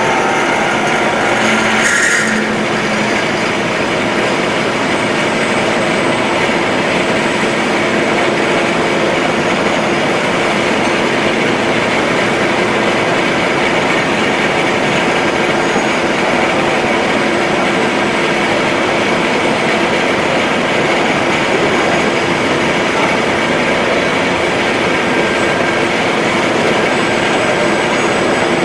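Milling machine running steadily, a loud, even mechanical noise with a few constant tones, and a brief sharp high-pitched sound about two seconds in.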